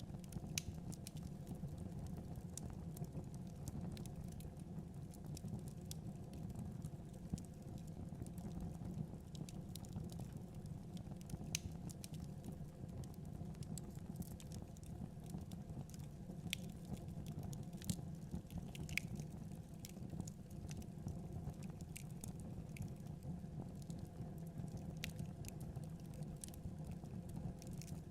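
Fire burning in a fireplace: a steady low rumble of the flames with irregular sharp crackles and pops scattered through it.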